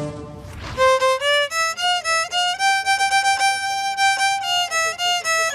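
Solo violin playing a slow melody of single bowed notes: stepping upward, holding a long note through the middle, then stepping back down. A brief rushing noise fills the first second.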